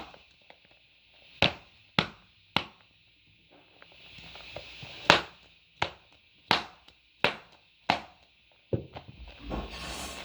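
About eight sharp leather slaps at uneven intervals: strikes landing in the pocket of a Kubota Slugger L7 baseball glove.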